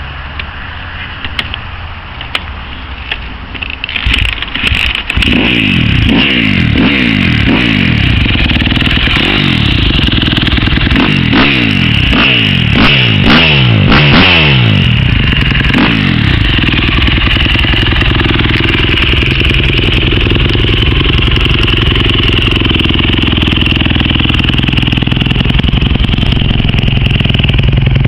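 2009 KTM 250 SX-F's single-cylinder four-stroke engine, breathing through an FMF slip-on muffler, cold-started. It catches about five seconds in, is blipped up and down repeatedly for about ten seconds, then settles to a steady idle.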